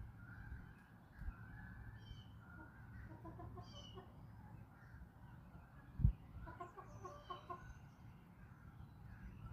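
Backyard chickens clucking in short runs of quickly repeated notes, about three seconds in and again around seven seconds, with other birds calling faintly behind. A dull low thump about six seconds in is the loudest sound.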